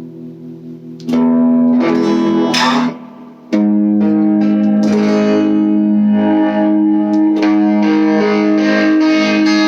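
Electric guitar through a small all-tube amp with the gain turned up to 10 and the guitar's tone knob rolled down, giving an overdriven sound. A faint chord rings, a loud chord is struck about a second in, and after a short drop more chords ring on from about three and a half seconds.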